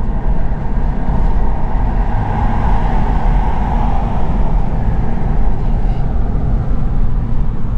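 Steady road noise inside a moving car at highway speed: a constant low rumble of tyres and engine.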